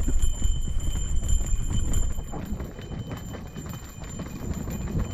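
Mountain bike rolling down a rough dirt trail: a low rumble of tyres and wind with irregular rattles and knocks as the bike goes over roots and rocks, louder for the first couple of seconds and then a little quieter.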